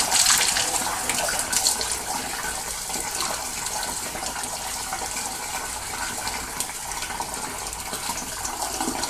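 Water spraying from a hand-held washout wand into a sectional steam boiler, with water running and splashing out as sludge and oil are flushed from the sections; a steady hiss, a little louder in the first couple of seconds.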